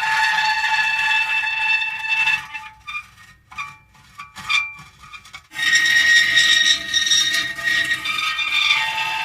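Metal creaking in long, drawn-out squealing tones. For about three seconds in the middle it breaks up into short scattered creaks and clicks, then the long creak resumes.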